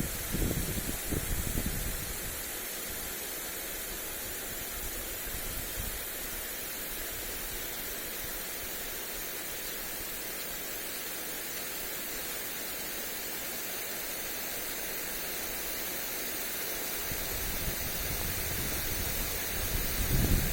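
Lawn sprinkler spraying water onto grass, a steady hiss. Gusts of wind buffet the microphone in the first two seconds and again near the end.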